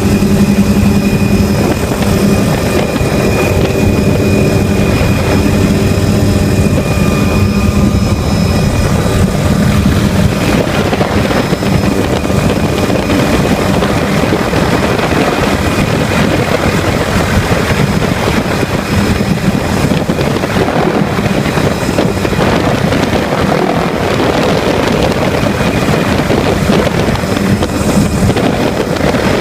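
Helicopter engine and rotors running steadily: a constant drone of several held tones over a rushing noise. The low tones fade after about ten seconds, leaving mostly the rushing.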